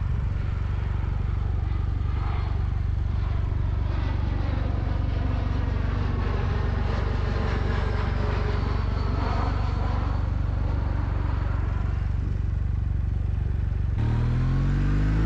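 Kawasaki W800's air-cooled parallel-twin engine idling with a steady low rumble while a landing airliner passes overhead, its engine whine sliding in pitch as it goes by. Near the end the motorcycle pulls away, its engine note rising.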